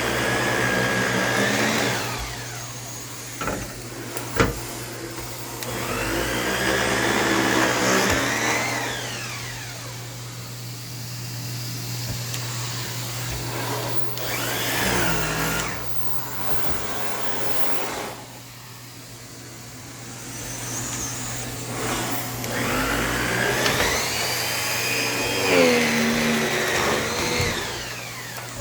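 Vacumaid central vacuum running through its electric hose and power nozzle, with a steady low hum under the rush of air. The suction whistle rises and falls in several long swells as the tool is worked back and forth over the floor covering. There is a sharp click about four seconds in.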